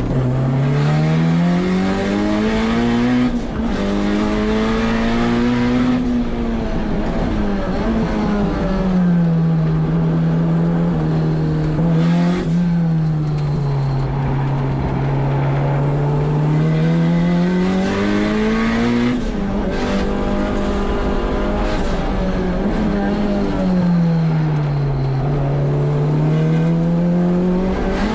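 Turbocharged K24 inline-four in a Honda S2000 at full effort on track: the revs climb, step down briefly at a quick upshift, then fall away under braking and climb again, several times over.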